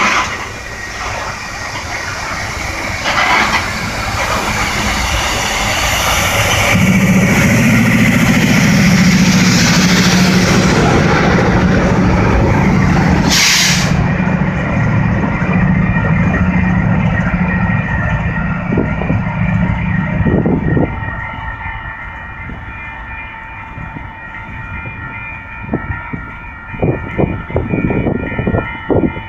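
A loaded coal train rolls past with steady wheel-and-rail noise. About 7 seconds in, Union Pacific GE AC4400CW diesel-electric locomotives pass close by with a loud low engine drone, which fades after about 20 seconds. As the train moves away, a steady chord of tones carries on, with scattered wheel clicks near the end.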